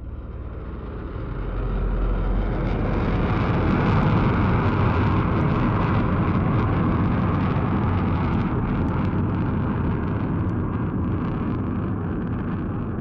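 Military fighter jet's engine noise as it flies past: a loud, even rumble that swells over the first two seconds, peaks about four seconds in, then slowly fades.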